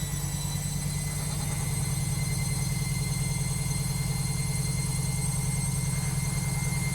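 Logik washing machine in its final spin with a badly unbalanced load: a fast, rapid low drum rumble under a motor whine that rises slowly as the drum speeds up, growing louder about two seconds in.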